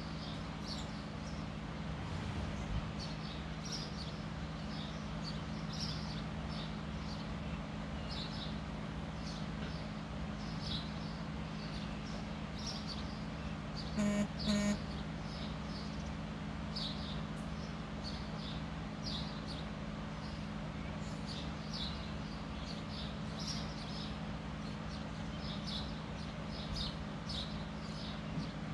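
Small birds chirping over and over against a steady low hum. About halfway through, two short, loud pitched tones sound one right after the other.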